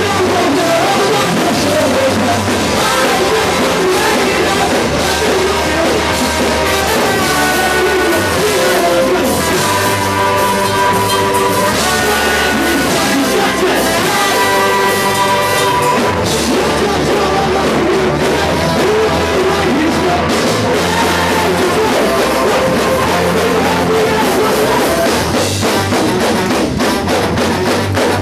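Loud rock music with a drum kit, guitar and singing, at a steady level.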